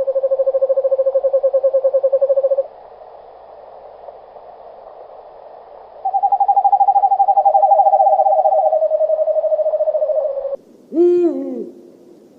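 Owl giving two long trilled calls, the second starting higher and stepping down in pitch, followed near the end by a short call that rises and falls in pitch.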